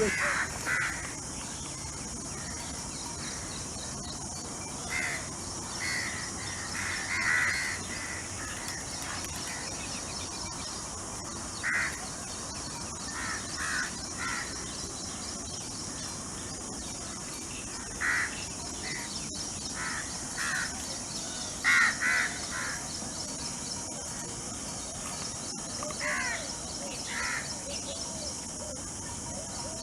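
Birds calling: short calls every one to few seconds, loudest about 7 and 22 seconds in, over a steady high-pitched hiss.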